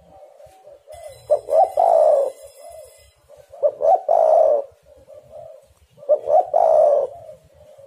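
Spotted dove cooing: three phrases about two and a half seconds apart, each a couple of short notes ending in a longer, louder coo, with softer coos in between.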